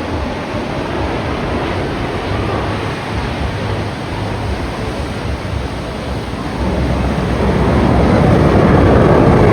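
Jet engine roar: a loud, steady rushing noise that swells about seven seconds in as the aircraft comes closer.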